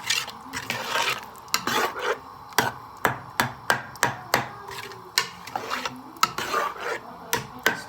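A spoon stirring and scraping in a cooking pot, with repeated sharp knocks of the spoon against the pot, about one or two a second.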